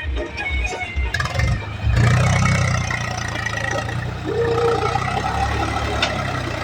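Swaraj tractor diesel engine running; it rises in level about two seconds in, then holds steady.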